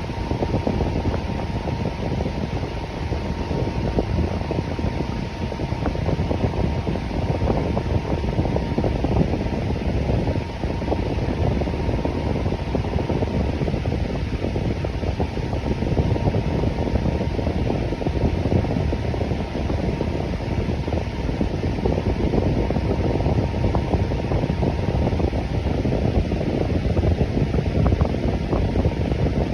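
Electric fan running steadily: an even rush of air, strongest in the low range, with a faint steady tone above it.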